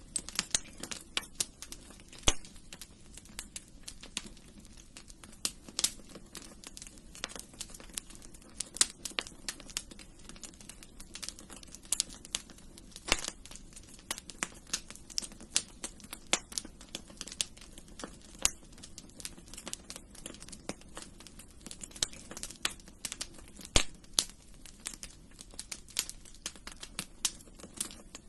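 Wood fire in a fireplace crackling: frequent, irregular sharp pops and snaps over a soft, steady low rush of the burning fire.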